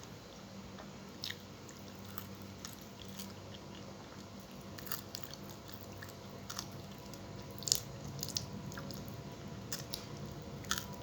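A person chewing and crunching food close to the microphone, with scattered sharp crunching clicks, the loudest about three-quarters of the way through, over a faint steady hum.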